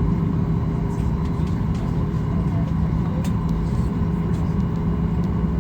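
Cabin noise of a Boeing 737 MAX 8 on the ground during taxi: its CFM LEAP-1B engines and cabin air give a steady low drone with a few steady hum tones.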